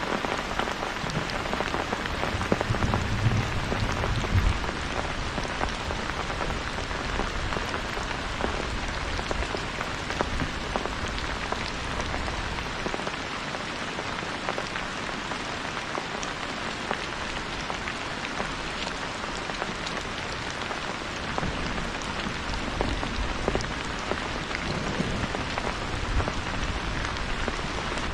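Heavy rain falling steadily, a dense hiss of drops with fine pattering, with a low rumble swelling briefly about three seconds in and again near the end.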